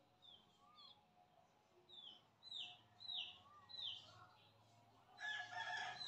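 Faint bird chirps: about ten short, falling whistled notes at irregular intervals over near silence.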